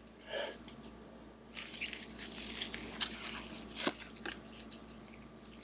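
Trading cards being handled and slid across one another: a dry rustling in the middle of the stretch, with a few soft clicks.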